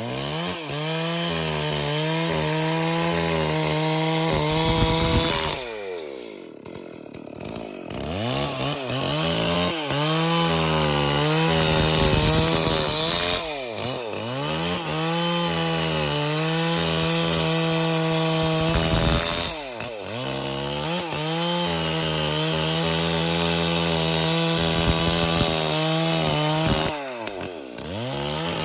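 Stihl MS440 two-stroke chainsaw cutting wood at high revs. Four times it briefly drops off throttle, its pitch sliding down and then revving back up, the longest dip about a quarter of the way in.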